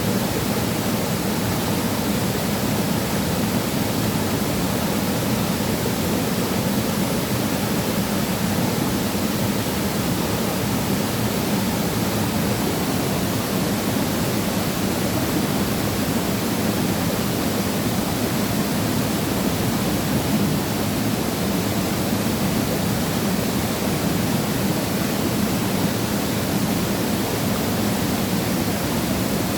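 A waterfall pouring steadily: an even, unbroken rush of falling water.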